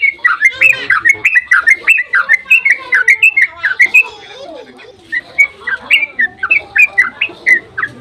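Yellow-vented bulbul (trucukan) singing a rapid, continuous chattering song of short bubbling notes, thinning briefly about four seconds in before picking up again.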